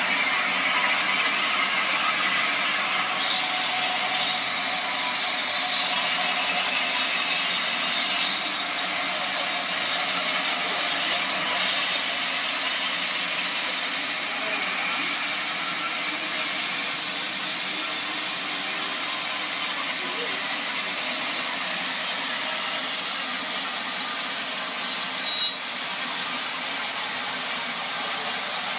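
Sawmill saw running steadily: a dense, hiss-like machine noise with faint whining tones, a little louder over the first dozen seconds. One brief sharp sound near the end.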